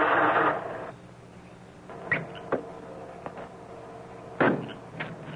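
A loud rushing noise cuts off within the first second, then a few sharp knocks and clicks on an old film soundtrack, the loudest about four and a half seconds in.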